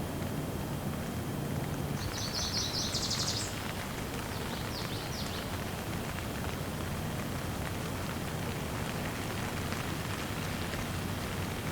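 Steady rain shower falling, an even hiss, with a run of short high chirps about two to five seconds in.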